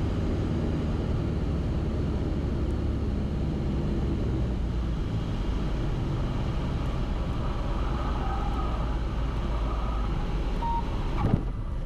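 Cabin noise of a Cessna 172RG in flight: the piston engine and propeller run steadily at reduced approach power, a dense low drone. A short thump near the end.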